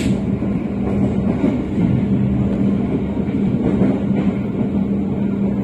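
Argo Bromo Anggrek express train running, heard from inside the passenger carriage: a steady rumble of the ride with a constant low hum.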